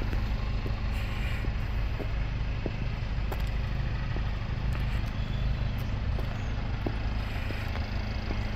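Mercedes-Benz GLC 250 Coupe's 2.0-litre turbocharged four-cylinder idling steadily, with a few faint clicks.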